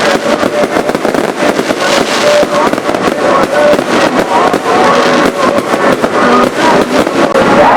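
A fireworks display: many shells bursting and crackling in quick succession, with music playing under them.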